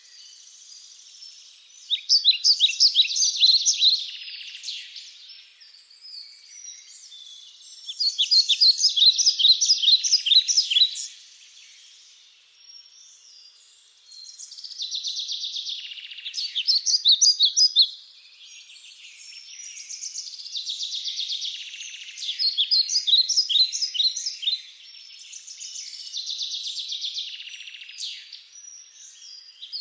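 Small birds singing: rapid, high-pitched chirped and trilled phrases a few seconds long, separated by short pauses.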